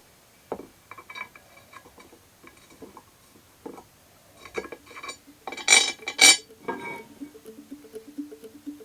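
Hard objects, likely metal parts or tools, clinking and tapping with a brief ringing note, the two loudest clinks about six seconds in. Music with a simple stepping melody comes in about seven seconds in.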